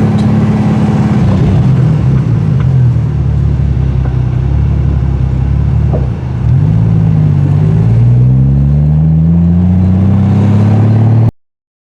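Triumph TR6's 2.5-litre straight-six running through a Monza exhaust with resonators, heard from the open car on the move. The engine note dips briefly about six seconds in, then climbs steadily as it accelerates, and stops abruptly near the end.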